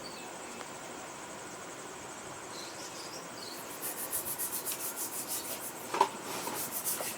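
Wire dish-scrubber rubbed back and forth over a soaked clay matki (budgie breeding pot), scouring off softened droppings. The fast scraping strokes start a little under four seconds in, with one louder knock about six seconds in.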